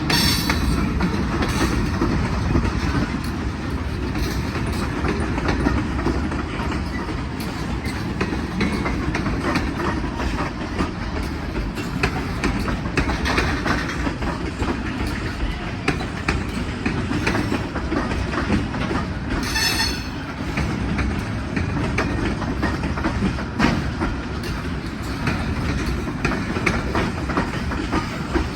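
Freight cars of a BNSF manifest train rolling past with a steady rumble and wheels clicking over the rail joints. A brief high-pitched squeal comes about two-thirds of the way through.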